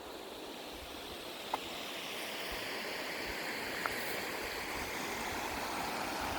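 Snowmelt creek water running: a steady rush that grows gradually louder, with two faint clicks, one about a second and a half in and one near four seconds.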